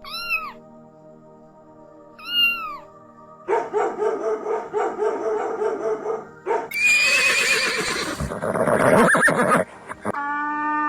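Several different animal calls, one after another, over faint music: two short rising-and-falling calls, then a quick run of pulsed calls, then the loudest, a long wavering horse whinny lasting about three seconds in the second half.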